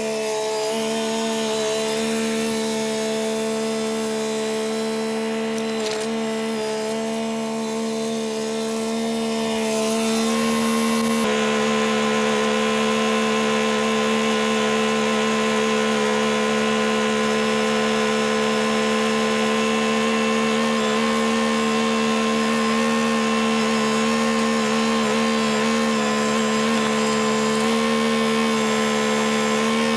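A machine's engine running steadily at constant speed with an even mechanical drone, growing a little louder about eleven seconds in.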